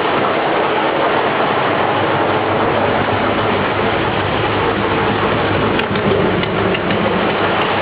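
GAZ-67's four-cylinder flathead engine running steadily.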